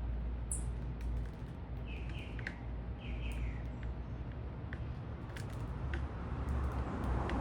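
Small birds at a feeder giving short chirps, a few in quick pairs, with scattered sharp ticks, over a steady low city rumble that swells near the end.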